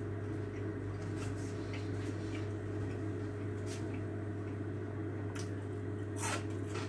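Chewing crunchy garlic bread, with scattered short crisp crunches, the loudest about six seconds in, over a steady low hum.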